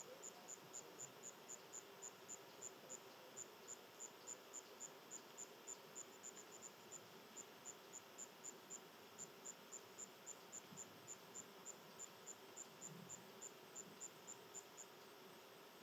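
An insect chirping steadily in short, high-pitched pulses, about four a second, with a brief pause midway; the chirping stops near the end.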